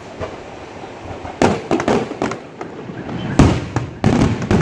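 Aerial fireworks shells bursting. After a quieter first second and a half comes a rapid string of sharp bangs, the loudest about three and a half seconds in.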